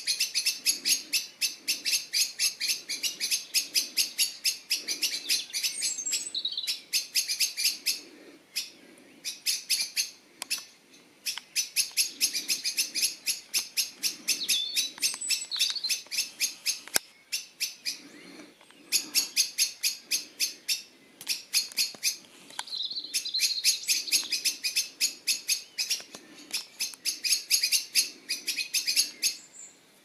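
A bird gives sharp chirps in a fast, even series, about four to five a second, in bouts broken by short pauses.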